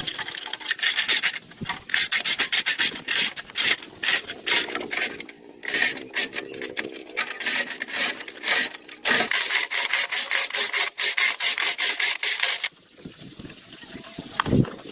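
Rapid, repeated rasping strokes of an abrasive hand tool scraping a surface; they stop suddenly about thirteen seconds in.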